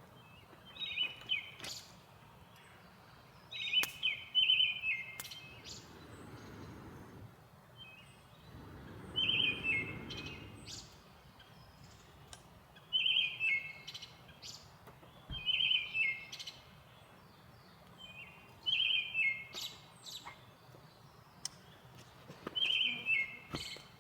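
A songbird singing a short phrase of quick high notes that step downward, repeated every three to four seconds, with a few sharp clicks between phrases.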